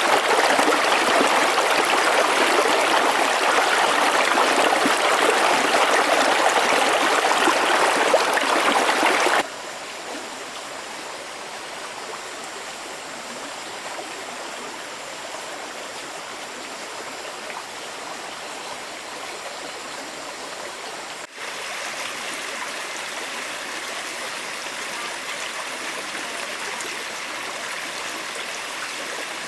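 Running water of a stream, a steady rushing noise. It is loud for about the first third, then drops abruptly to a quieter flow, and rises a little again after a brief dip about two-thirds of the way in.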